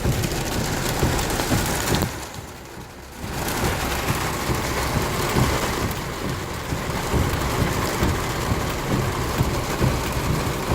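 Heavy rain pouring down in a thunderstorm, a dense steady hiss. About two seconds in it drops away sharply for about a second, then comes back as strong as before.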